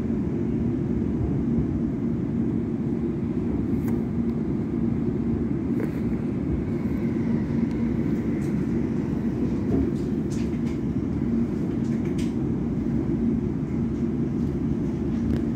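London Overground electric train running along the line, heard from inside the carriage: a steady low rumble with a faint steady hum and a few light clicks.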